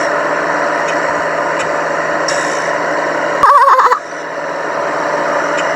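Steady rumble and hiss of road traffic, like a passing truck, picked up by an outdoor microphone. About three and a half seconds in, a loud, brief wavering high-pitched cry cuts through for about half a second.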